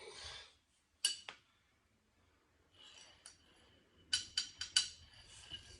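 Steel hardware clinking and tapping as jacks and lathe feet are worked: a brief scrape, two sharp clicks a second in, then a quick run of four or five ringing metal clinks about four seconds in.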